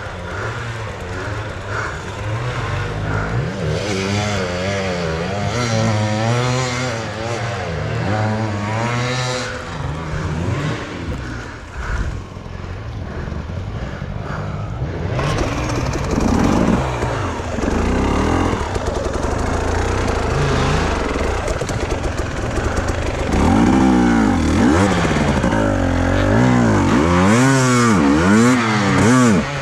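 Enduro motorcycle engine being ridden off-road, its revs rising and falling over and over as the throttle is worked. The revving gets louder and faster in the last few seconds.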